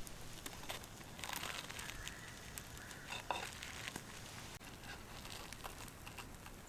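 Faint, sparse clicks and light crinkling, small close-by handling or crackling sounds.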